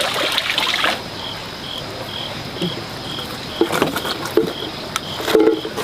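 Cricket chirping steadily, a short high chirp about twice a second. Running water is heard for the first second and then stops. A few knocks and short low sounds follow later on.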